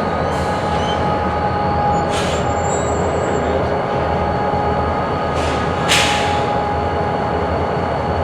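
Freight cars rolling through a rail yard, with a steady rumble and a thin, steady wheel squeal. Short hissing bursts come about two seconds in and again around six seconds.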